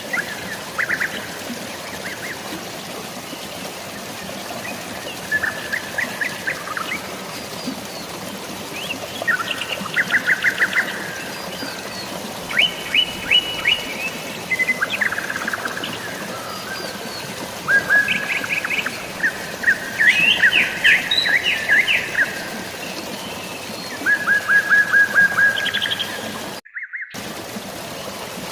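Songbirds calling in short, rapid trilled phrases, one every second or two, over a steady hiss of rain and running water. The sound cuts out for a moment near the end.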